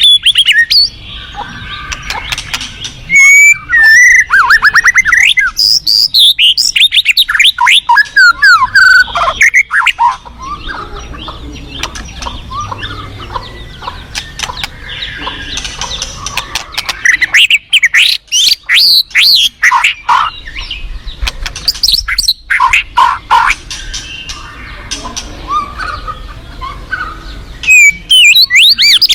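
White-rumped shama (murai batu) singing: loud spells of fast, varied whistles and chattering notes that sweep up and down in pitch, with short pauses between phrases.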